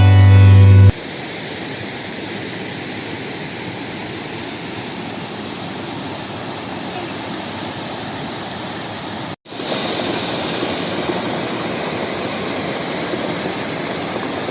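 Water rushing over small waterfall-like cascades, a steady rushing noise. It cuts out briefly about nine seconds in and comes back louder and hissier. Music ends in the first second.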